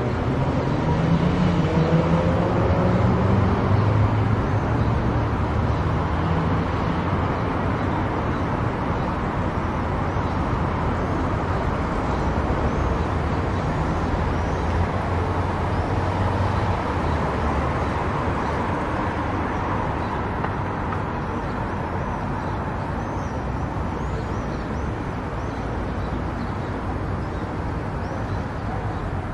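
Car driving on a highway: steady road and tyre noise with engine hum. An engine tone rises in pitch over the first few seconds and then settles into the even noise.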